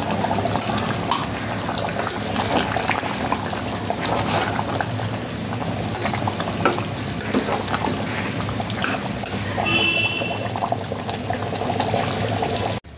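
Onion paste and masala sizzling in hot oil in a pressure cooker pot while a steel ladle stirs and scrapes against the sides, with scattered clinks; this is the onion paste being fried (bhuna) into the masala. The sound stops abruptly near the end.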